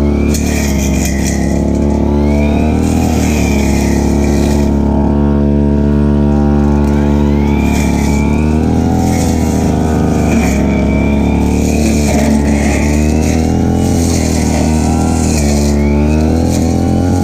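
Stihl FR3001 backpack brush cutter's two-stroke engine running at working speed. Its pitch holds steady for a few seconds at a time and dips and rises again several times.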